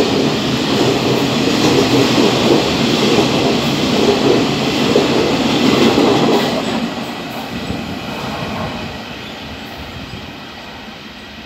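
Freight train rolling through a station at speed, a dense steady rumble of wagons on the rails. About two-thirds of the way in it starts to fade steadily as the train draws away.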